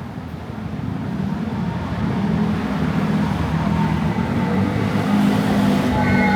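Train approaching: a low rumble that grows steadily louder, with squealing wheels starting near the end.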